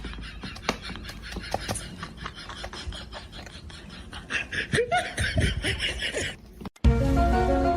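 People laughing and snickering over scattered clicks and knocks. The sound cuts off briefly near the end and music starts.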